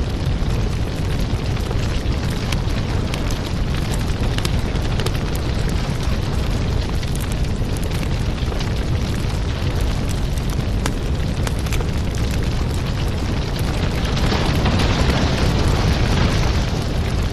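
Wood fire crackling and popping over a steady low rumble, the kind of fireplace recording used as a backing track; the hiss grows a little louder for a few seconds near the end.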